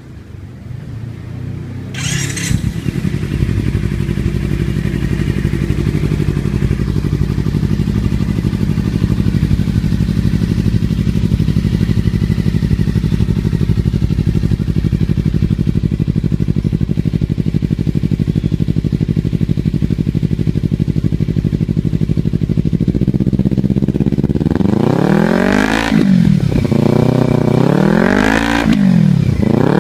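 Kawasaki Ninja Fi motorcycle engine through a titanium Remus Hexacone-style racing exhaust, idling steadily. Near the end it is revved up and let fall back about three times.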